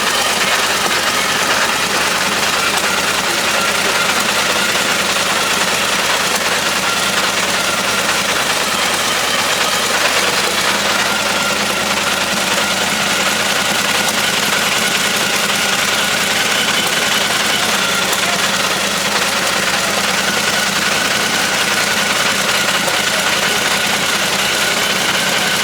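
Car engine idling steadily under a dense, even noise, with no change in pitch or level.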